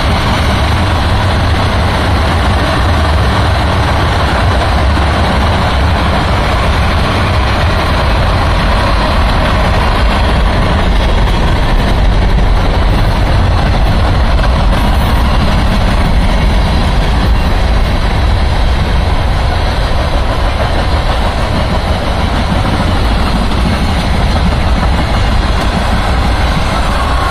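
Tank cars and covered hoppers of a freight train rolling past at close range: a steady, loud rumble of steel wheels on the rails.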